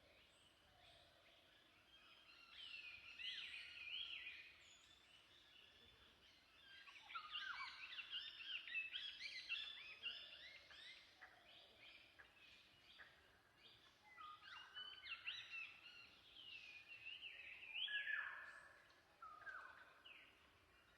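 Faint birdsong outdoors: birds calling in bouts of quick, gliding chirps over a soft background hiss. The bouts come about three seconds in, densely from about seven to twelve seconds, and again from about fifteen to nineteen seconds.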